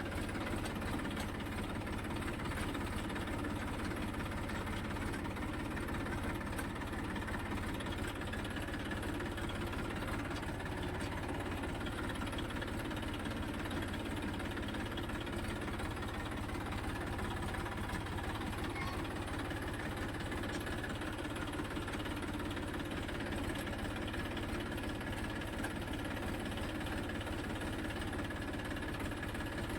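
Tractor engine running steadily at an even pitch throughout, with no change in speed.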